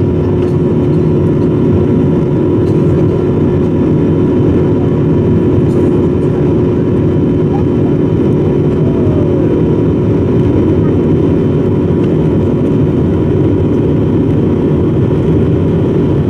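Steady drone of an airliner's engines and rushing air heard inside the passenger cabin, with a few fixed tones held over an even roar.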